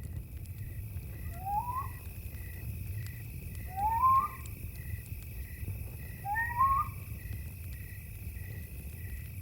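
Night jungle ambience: an owl gives three short rising calls, about two and a half seconds apart, over crickets chirping in a steady, regular rhythm. Underneath are a low rumble and faint scattered crackles of a campfire.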